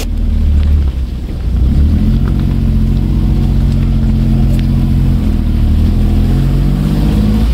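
Small car engine of a 1988 Subaru Justy heard from inside the cabin while driving, its note rising about two seconds in and then holding steady.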